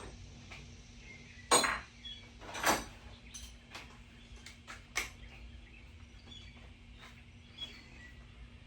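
Metal hand tools clinking and knocking, three louder strikes with a brief metallic ring among lighter ticks, while a socket and wrench are set to the 10 mm bolts holding a small floor cover pan in a car.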